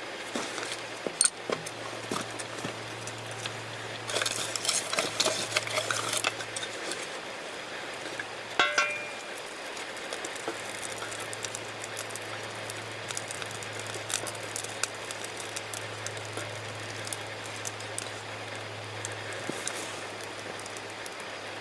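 Small objects being handled, with a burst of clattering and one ringing metallic or glass clink near the middle, then scattered faint ticks over a low steady hum.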